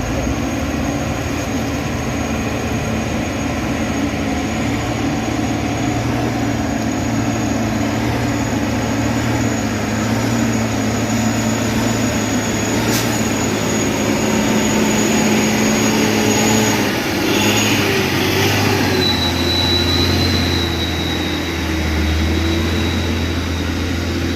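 Heavy diesel engine running steadily, with a thin high whine above it; the engine note shifts a little over halfway through, and there is a single sharp click around the middle.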